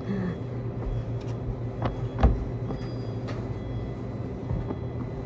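Laundromat washing machines and tumble dryers running with a steady hum, with a few short knocks and clunks.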